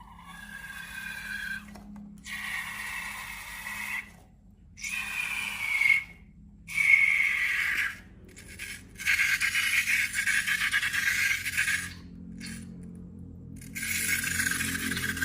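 Rubber balloons being squeezed and rubbed, giving squeaky, scraping sounds in several bursts of a second or two, some falling in pitch.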